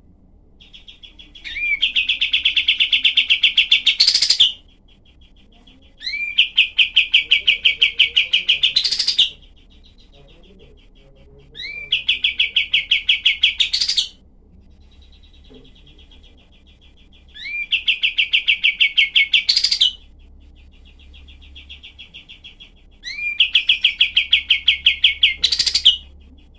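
Kapas tembak song: five loud, rapid rattling trills, one every five to six seconds, each lasting two to three seconds and ending in a sharp rising note, with softer trills between them.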